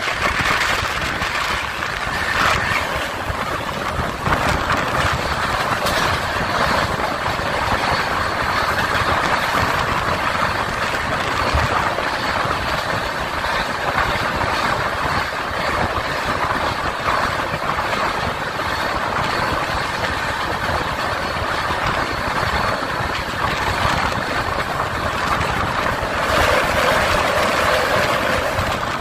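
Indian Railways express train running at speed, heard from an open door: a steady rushing noise of wheels on the rails and wind. It grows louder for a couple of seconds near the end.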